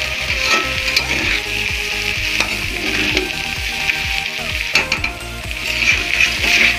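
Chow mein noodles sizzling in hot oil in a pan while being stirred, the spatula clicking and scraping against the pan many times.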